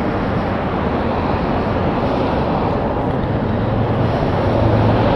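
Steady freeway road and wind noise on a helmet-mounted camera, with a low hum that grows louder about three and a half seconds in.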